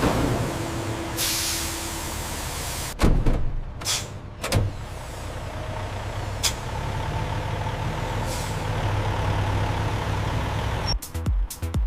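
Truck air brakes hissing, then a few clunks and the truck's engine running steadily. Electronic music with a beat comes in near the end.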